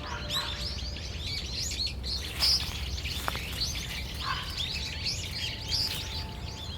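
A flock of small birds chirping, many short high calls in quick succession, over a steady low rumble.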